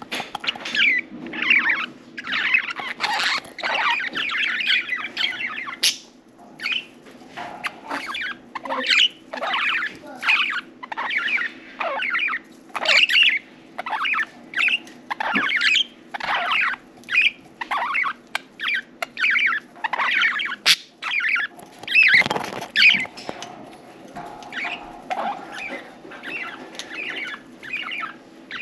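Budgerigars chirping and chattering, a quick, unbroken string of short calls.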